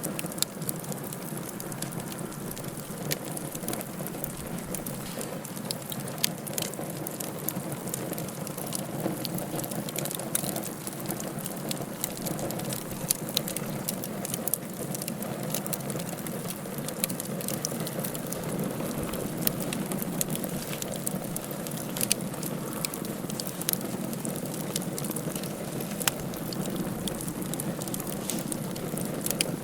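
Wood fire crackling in a fireplace: many irregular sharp pops and snaps over a steady low rushing hiss.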